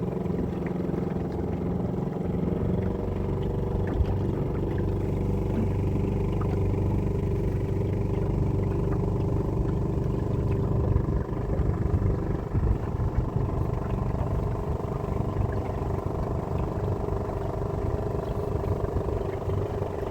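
Boat engine running steadily at a constant speed, close by.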